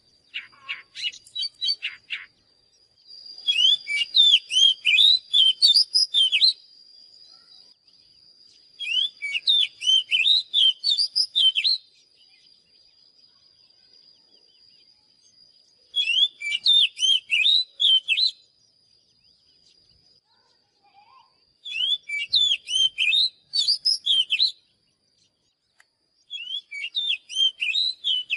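Oriental magpie-robin singing: about six bursts of rapid, varied whistled notes, each a couple of seconds long and separated by short pauses. A faint steady high tone runs under the song through the middle.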